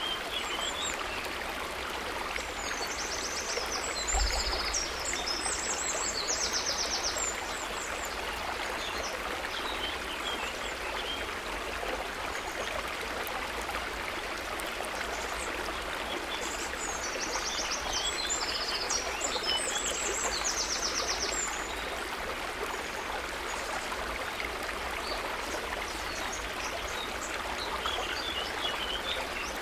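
Stream of running water flowing steadily. Above it come two stretches of high, rapid trilling calls, each a few seconds long, and a brief low thump about four seconds in.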